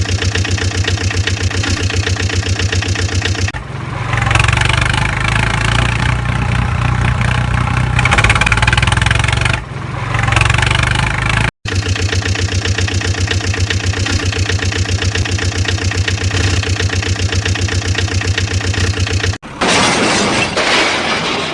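Tractor engine running with a steady, fast firing beat, growing louder and rougher for several seconds as if revved, then cutting off abruptly and resuming at a steady run; near the end a different, noisier sound takes over.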